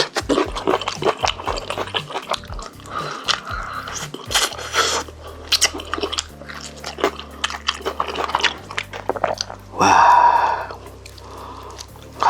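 Close-miked chewing and biting of chicken, with many short crisp crunches, over quiet background music with a low bass line. A short, loud pitched burst comes about ten seconds in.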